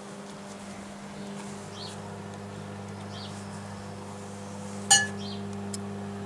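Microwave oven running with a steady mains hum, a 1.5-volt alkaline battery heating inside it. About five seconds in there is one sharp clink with a short ring. Birds chirp faintly.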